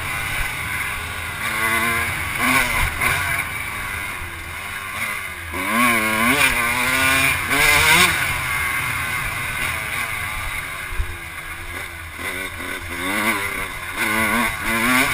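Off-road vehicle engine revving up and down over and over, with sharp rises about six and eight seconds in, as it is ridden round a motocross track.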